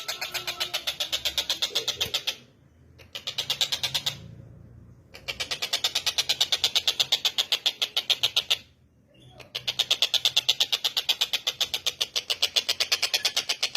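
Tengkek buto bird calling a fast, even string of sharp high notes, about seven a second, broken by three short pauses.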